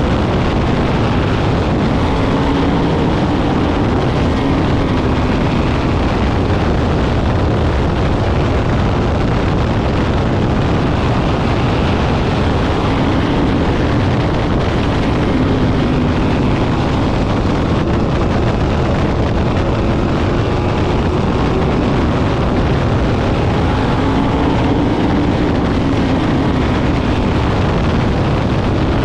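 Sprint car engines running on the track, a loud steady din whose engine notes swell and fade several times as cars go by.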